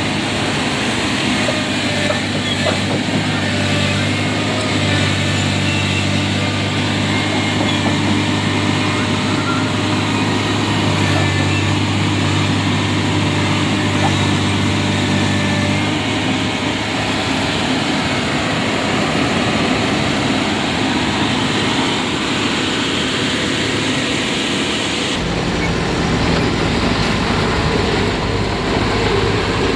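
Heavy vehicle engines running steadily amid road traffic. A low engine hum is strong for the first half, then gives way to a broader traffic noise, and the sound changes abruptly about 25 seconds in.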